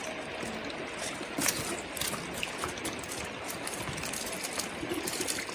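Steady hiss of rain with scattered light taps and drips, one sharper tap about a second and a half in.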